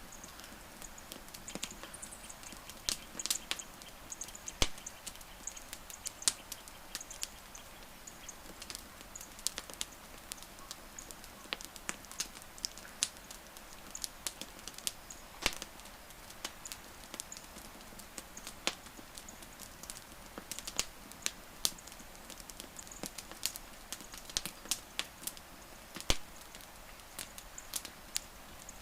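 Burning wood crackling in a campfire: irregular sharp pops and snaps, a few of them loud, over a steady low hiss.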